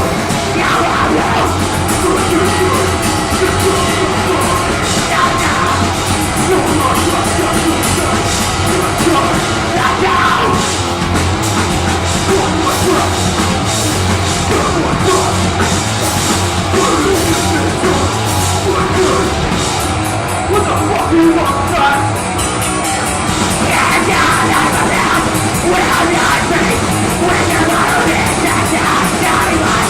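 A deathgrind band playing loud and live: distorted guitars, bass and drums, with yelled, growled vocals over the top.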